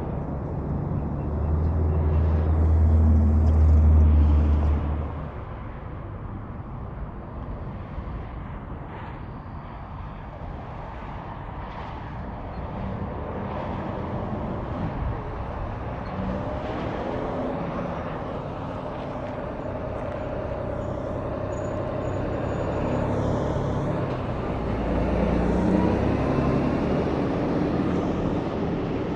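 Highway traffic passing: a heavy truck goes by close about a second or two in, its low engine note loudest until about five seconds in, then quieter road noise, with another vehicle passing near the end.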